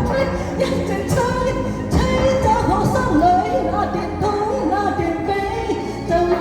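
Mandarin pop ballad backing track playing between sung lines, with a bending melody line over a steady low accompaniment and no lyrics sung.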